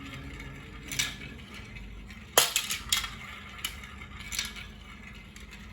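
Marbles clacking on a marble run track: sharp hard clicks, one every second or so, with a faint steady hum underneath.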